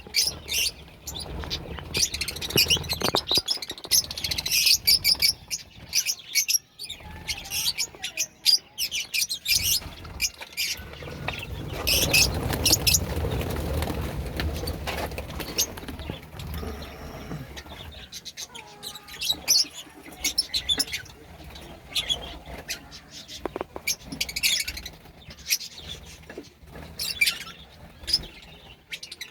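A flock of budgerigars chirping, many short high chirps overlapping one another, with a few seconds of louder rustling noise in the middle.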